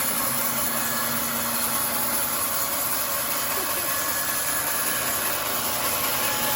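Homemade sawmill running steadily, a constant machine noise with no change in load.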